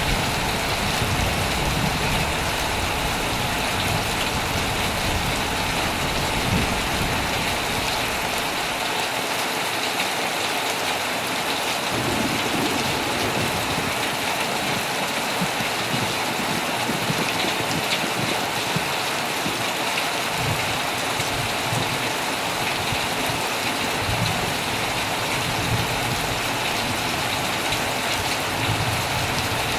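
Heavy rain falling steadily on a tent, a dense, even patter, with a low rumble under it that comes and goes.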